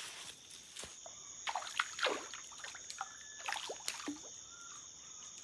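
Water splashing and dripping at the creek surface: a cluster of short, falling plinks between about one and four seconds in. Under it runs a steady, high-pitched drone of night insects.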